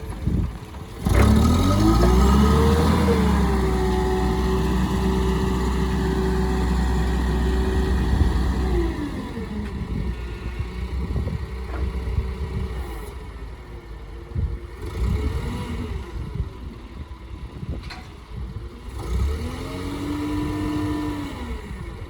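Nissan H20 four-cylinder petrol engine of a TCM FG25N2S forklift, freshly cold-started, revved up sharply about a second in and held at high revs for several seconds before dropping back to idle, then blipped up twice more for shorter spells.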